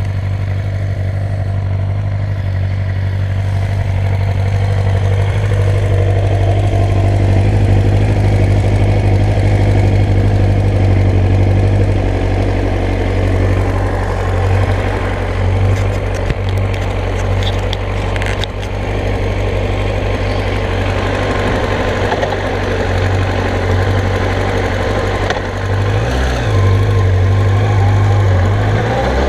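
2001 Yamaha YZF-R1's inline-four engine idling steadily, with a few sharp clicks in the middle and the revs beginning to waver and rise right at the end.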